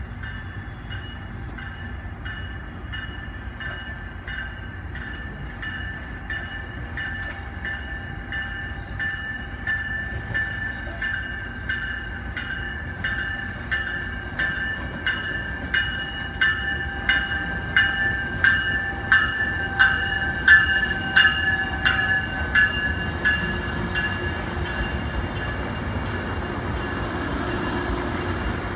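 Metrolink commuter train arriving over a low rumble, its locomotive bell ringing steadily about twice a second and growing louder as the train nears. The bell stops a few seconds before the end, leaving the cars rolling past with a high thin squeal.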